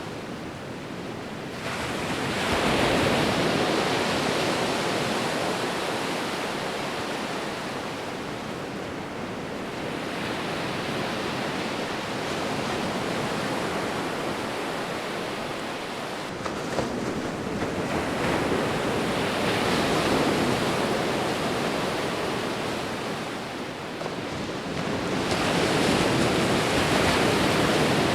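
Sea waves breaking and washing up the shore, the surf swelling three times: a couple of seconds in, again just past the middle and once more near the end.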